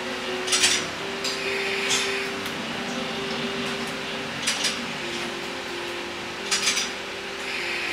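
KiHa 11 diesel railcar rolling along the track: a steady drone from the running gear and engine, broken by four sharp metallic clanks, three of them in quick pairs, as the wheels cross rail joints.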